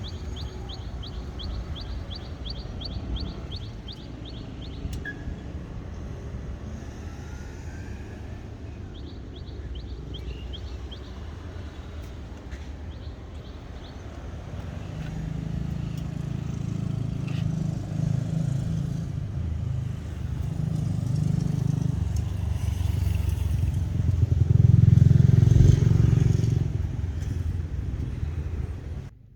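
A vehicle engine, most likely the Mitsubishi Triton pickup's own engine, running with a steady low rumble. About halfway through it swells louder three times, the third swell the loudest.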